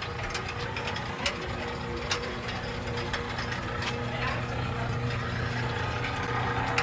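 Boat lift lowering a boat: a steady motor hum with gear and ratchet-like mechanical noise, and scattered sharp clicks.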